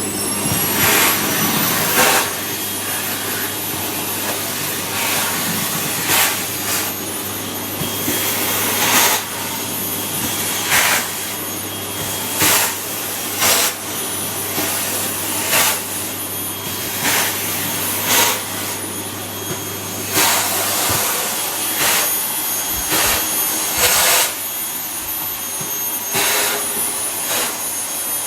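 Vacuum cleaner running with a steady high whine, broken every second or so by short, louder rushes of sound.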